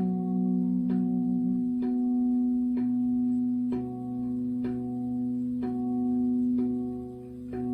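Tuned metal sound-healing instruments struck in a slow, steady pulse, about once a second. Each strike rings into the next over a sustained low hum.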